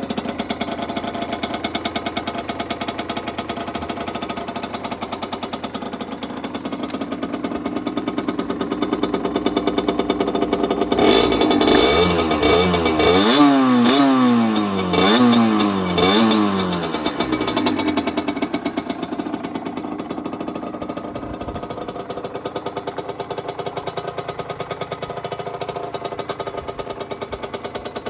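Aprilia RS50's 50 cc two-stroke single running through a full Arrow exhaust: a rapid, rattly idle, then a run of quick throttle blips through the middle, the revs rising and falling several times before dropping back to idle.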